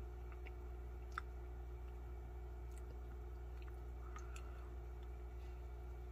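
Faint chewing and mouth sounds of someone eating a thick potato purée from a space-food tube, with a few small clicks and smacks, the sharpest about a second in, over a steady low hum.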